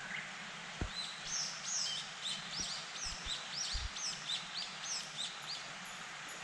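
A songbird singing a quick run of short, arched whistled notes, about four a second, starting about a second in and stopping a second before the end, over a steady outdoor hiss.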